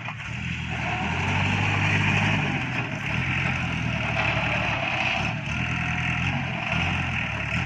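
Iseki NT554 tractor's diesel engine running, picking up revs about a second in and then holding steady.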